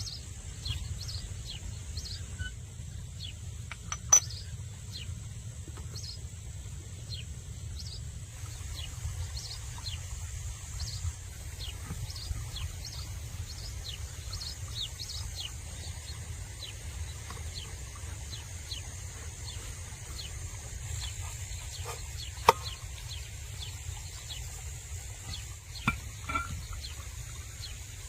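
Small birds chirping, many short high chirps, over a steady high insect drone and a low rumble. A few sharp knocks cut through, the loudest about four seconds in and another later on.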